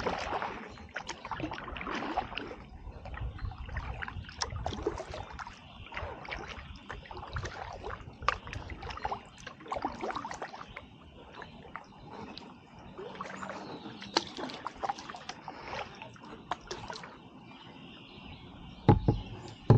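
Kayak paddle strokes on calm river water: irregular splashes as the blades dip, with water dripping off them. A low thump comes near the end.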